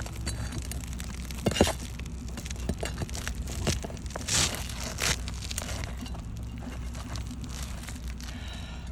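Asphalt roof shingles being worked loose with hand tools as nails are pulled out: scattered sharp knocks and clicks with crunching, crinkling scrapes. The loudest knock comes about a second and a half in, and a longer crunch a little past four seconds.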